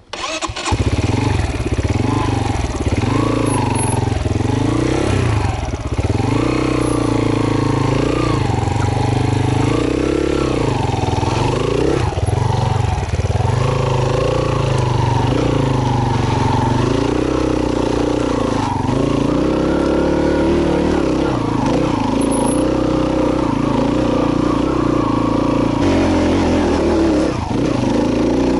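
Single-cylinder trail motorcycle engine under way, its note rising and falling every second or two as the throttle is opened and closed over rough ground. It comes in suddenly right at the start.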